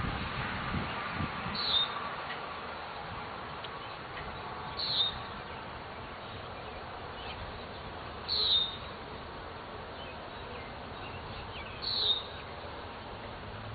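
A bird calling four times, one short high note about every three and a half seconds, over the steady buzz of honeybees around an open hive.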